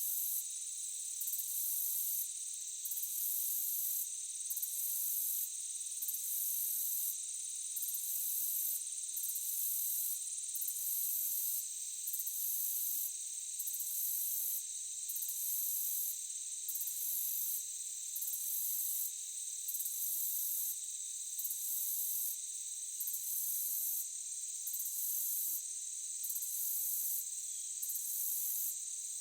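Insect chorus of crickets: a steady high-pitched trill, with a still higher layer that pulses on and off about every second and a half.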